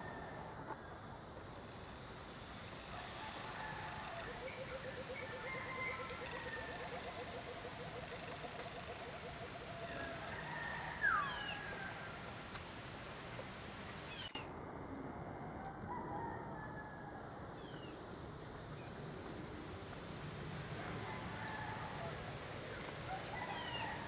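Several birds calling: scattered chirps and short whistles, a rapid low trill lasting several seconds, and a falling whistle about eleven seconds in, the loudest call.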